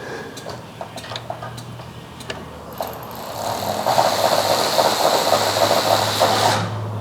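Air impact wrench running for about three and a half seconds with a rapid rattling hammer and an air hiss, backing out a suspension bolt, then stopping abruptly. Before it come a few light clicks and knocks of tools on metal.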